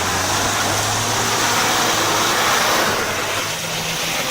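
Off-road vehicle's engine under hard load while it tries to climb out of a muddy pit, its tyres spinning and churning through mud and water in a steady loud hiss.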